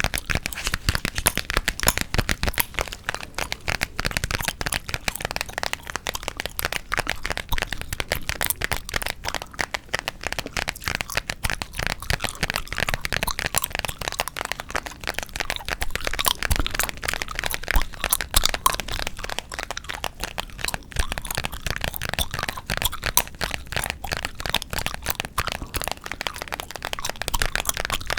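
Close-miked gum chewing with tapping: a dense, continuous stream of sharp crackling clicks and small wet snaps, with no pause.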